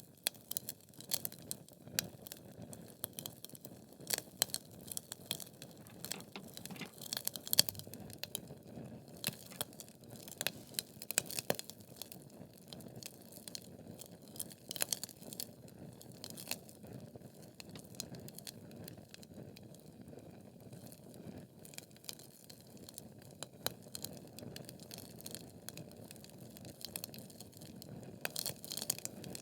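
Wood fire burning in a fireplace: logs crackling and popping irregularly over a low steady hiss of flame.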